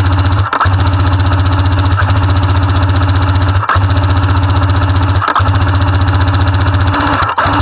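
Airsoft M60 support gun firing long full-auto bursts, a fast, even mechanical rattle with a steady low hum, broken by brief pauses about every one and a half to two seconds. It is heard loud and close, from a camera mounted on the gun.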